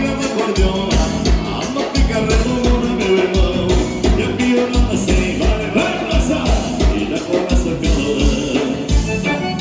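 Live gaúcho dance-band music in an instrumental passage: accordion-led melody over a steady bass-drum beat of about three strokes a second.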